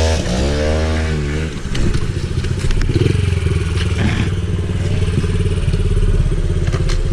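Small pit bike engine revving. Its pitch rises and falls a few times in the first second or so, then it runs on steadily at higher revs, with a few light knocks.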